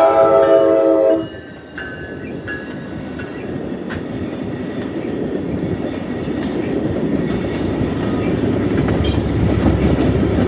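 Amtrak Capitol Corridor train's chord horn sounding, cutting off about a second in. Then the train's rumble and wheel noise on the rails grows steadily louder as it reaches the crossing, with brief high-pitched wheel screeches near the end.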